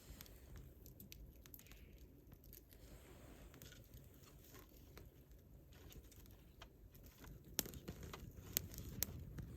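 Wood fire crackling: scattered small pops and snaps over a low rumble, with a few sharper pops near the end.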